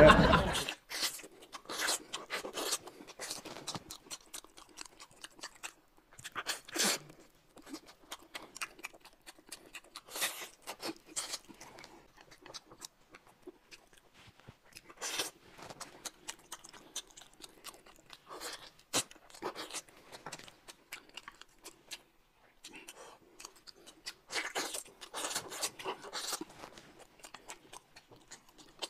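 A man eating close to the microphone: irregular chewing and crunching, heard as scattered short sharp sounds with small gaps between them.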